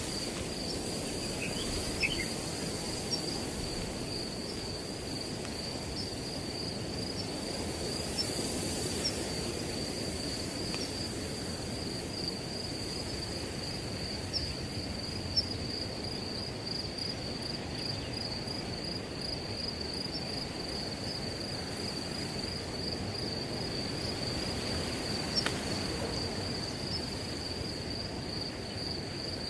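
Crickets trilling steadily in a continuous high chorus, over wind rustling through field grass. A few faint, brief clicks are heard now and then.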